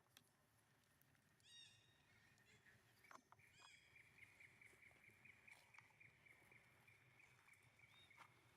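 Faint high-pitched animal calls: a few short squeaky falling calls, then a long rapid trill held at one pitch from about three seconds in.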